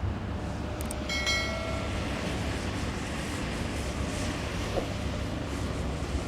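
Steady outdoor rumble and noise, with a brief horn-like tone about a second in.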